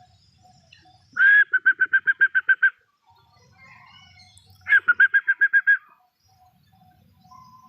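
A bird calling loudly twice, a few seconds apart: each call is a first note followed by a fast, even run of about nine short notes, about seven a second.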